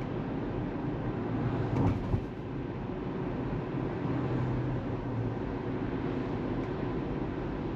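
Tesla Model 3 tyre and road noise while driving, steady, with a brief thump about two seconds in.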